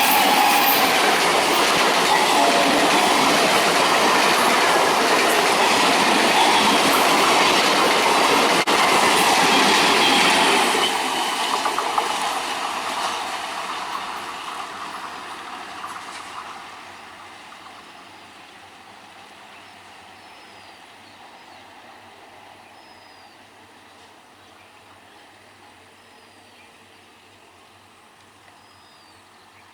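Indian electric multiple-unit (EMU) local train passing at speed, its wheels clattering over the rail joints with some squeal. It is loud for about the first ten seconds, then fades away over the next six or so as the train draws off.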